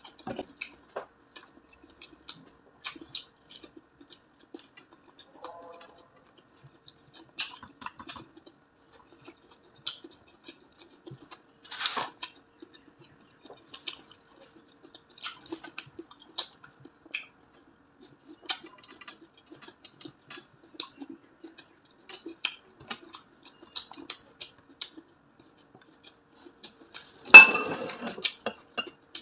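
Close-miked chewing of crispy fried pork belly: scattered wet mouth clicks, smacks and small crunches, with one loud sharp crack near the end.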